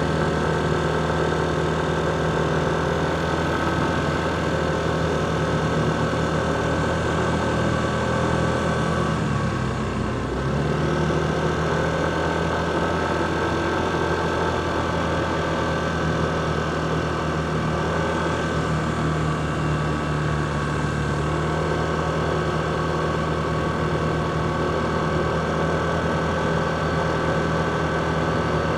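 Motorcycle engine running steadily under the rider. Its pitch dips briefly about ten seconds in, then comes back up.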